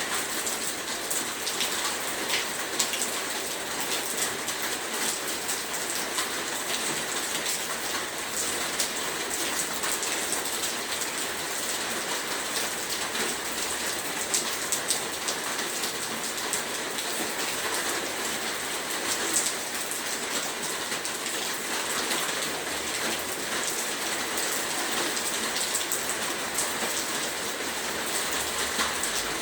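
Heavy rain falling steadily, a dense hiss of drops with many small sharp patters on a surface.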